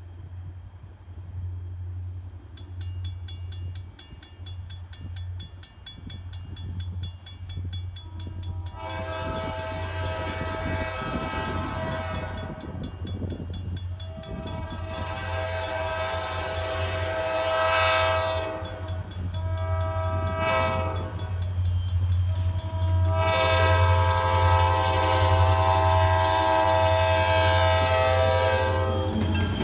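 Diesel locomotive of a Wheeling and Lake Erie train approaching a grade crossing, blowing its horn in a series of long blasts with short breaks, the crossing signal. A bell starts ringing a few seconds in, over a low engine rumble that grows louder as the train nears.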